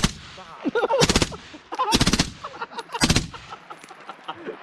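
Fully automatic gun firing four short bursts of several rounds each, about a second apart.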